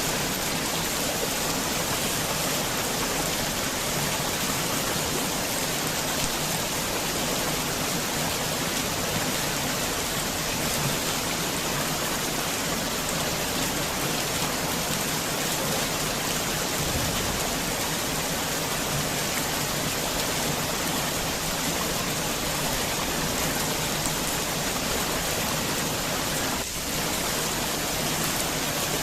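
Heavy rain falling in a steady, dense hiss, with one brief dip in level near the end.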